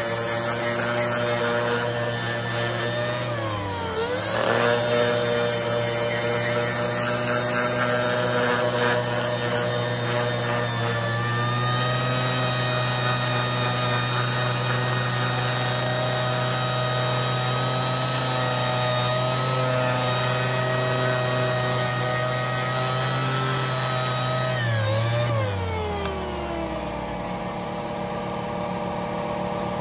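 Electric sander running steadily on a steel axe head to polish it. Its motor pitch dips briefly about four seconds in, and near the end it is switched off and winds down.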